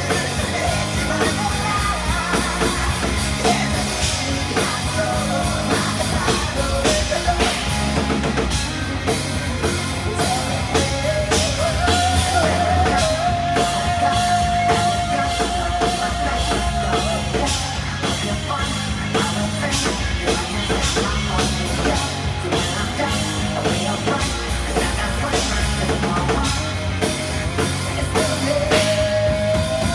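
Live rock band playing: a full drum kit driving a steady beat under guitar and bass, with a long held note in the middle.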